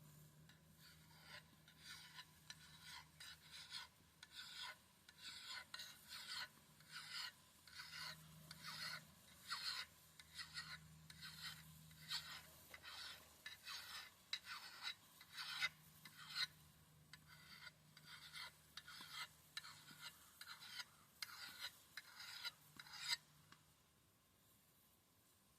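Ax blade being sharpened by hand: a long run of even rasping strokes, about two a second, that stops near the end.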